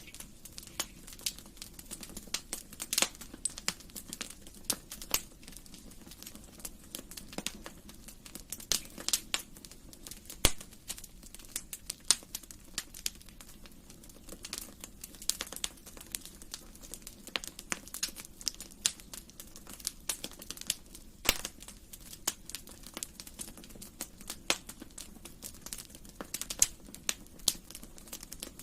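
Wood fire crackling in a fireplace: irregular sharp pops and snaps over a soft, steady low rush of flame, with a few louder snaps scattered through, the sharpest about ten seconds in.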